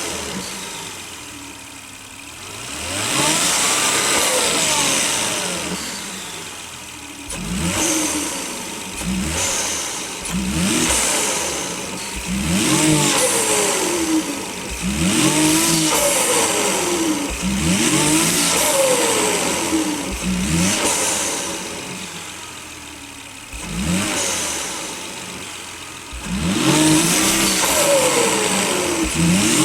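Volvo S80's turbocharged engine with a K&N cold air intake, revved up and let off again and again, with turbo flutter whooshing as the throttle closes.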